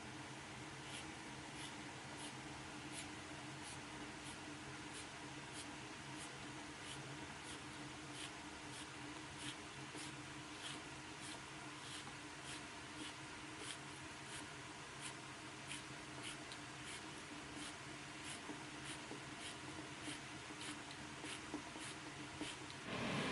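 Faint, rhythmic scraping strokes, about two a second, over a steady low hum.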